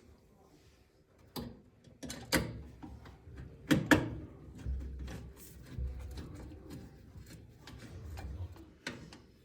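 Sharp clicks and knocks of metal parts being handled and fitted inside a gas range during reassembly, with two louder knocks around the second to fourth second and lighter rubbing and handling noise between them.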